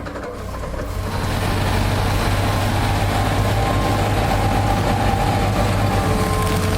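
Large excavator's diesel engine running steadily under load, building up over the first second or so.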